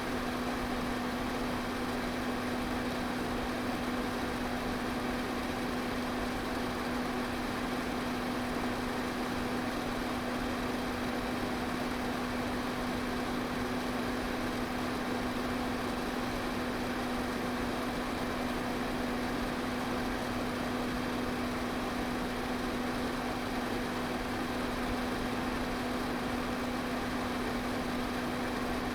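Electric pedestal fan running steadily: a constant rush of air with a steady motor hum under it.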